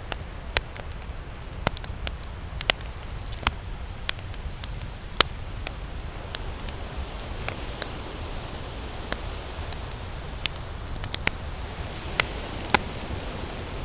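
Wood campfire crackling, with sharp irregular pops about once a second over a low steady rumble; one of the loudest pops comes near the end.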